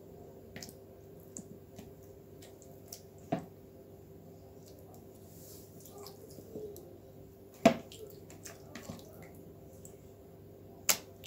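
Raw chicken pieces being worked by hand through a thick yogurt marinade: small wet squishes and clicks, with three sharper knocks against the container, the loudest about two thirds of the way in. A faint steady hum lies underneath.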